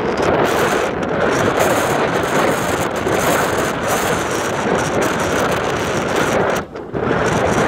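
Strong sandstorm wind buffeting the microphone, a loud unbroken rush that drops briefly about seven seconds in.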